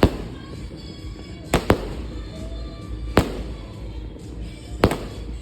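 Aerial firework shells bursting in sharp bangs, one at the start, a quick pair about a second and a half in, one about three seconds in and another near the end, with a crackling haze between.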